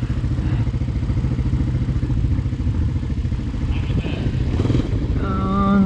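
Single-cylinder four-stroke ATV engine running steadily at idle. Near the end, a drawn-out voice sounds over it.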